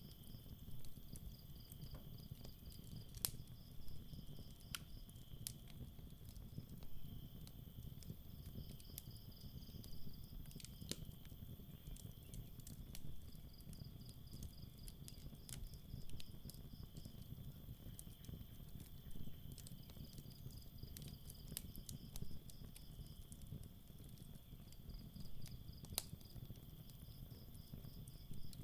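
Campfire crackling, with sharp pops every second or so over a low steady rumble, while crickets trill without a break and a second insect chirps in rapid runs lasting a few seconds each.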